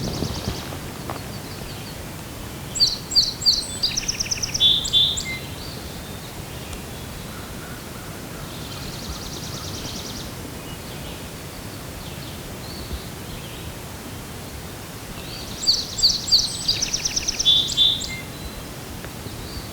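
A songbird singing the same short song twice, each a quick run of high notes that steps down in pitch over about two and a half seconds, with a fainter buzzy call between them, over a steady outdoor hiss.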